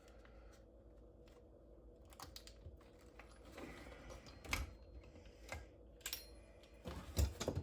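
Small metallic clicks and taps from a valve spring compressor being worked on the cylinder head to seat valve keepers, with sharper knocks about four and a half seconds in and near the end.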